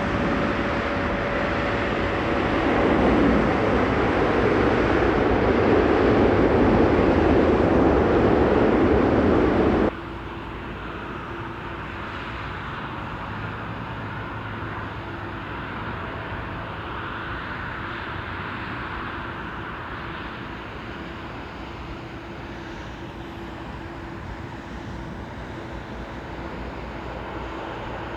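Jet airliner on final approach passing low overhead, a loud rushing roar that swells and then cuts off abruptly about ten seconds in. After that a quieter, steady distant jet rumble with a faint held tone.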